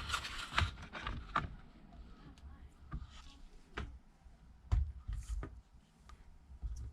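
Light, irregular clicks and taps from small tools and parts being handled while fitting a tablet's replacement screen.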